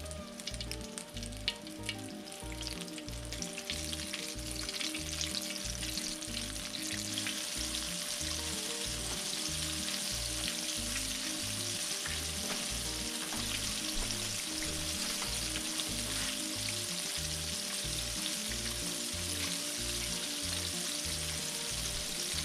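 Flour-coated chicken strips frying in hot oil in a cast iron skillet: a crackling sizzle that builds over the first several seconds and then holds steady. Background music plays underneath.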